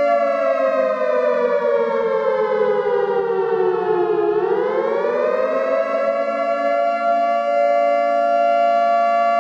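Outdoor civil-defence warning siren sounding a steady two-note wail. Its pitch sinks slowly over about four seconds, rises back within about two seconds, then holds steady.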